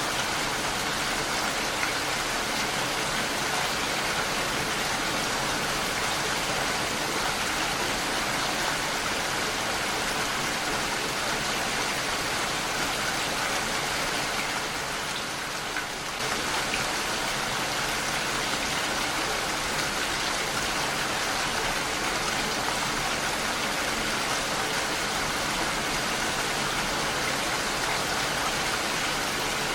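Heavy rain falling on a window pane, a steady dense hiss that dips slightly quieter for a moment about half-way through.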